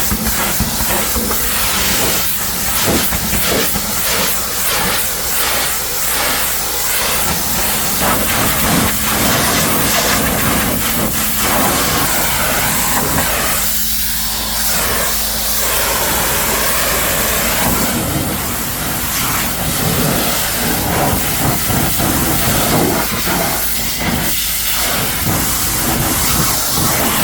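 High-pressure washer jet spraying water onto a vehicle: a loud, continuous hiss whose texture keeps changing as the spray moves over different surfaces.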